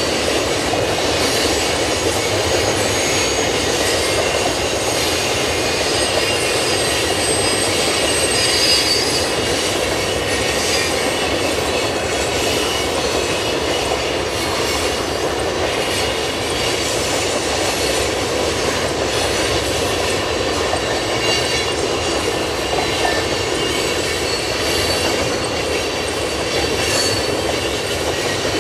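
Freight train of tank cars rolling past at a steady speed: a continuous rumble of steel wheels on rail, with thin high-pitched wheel squeal coming and going.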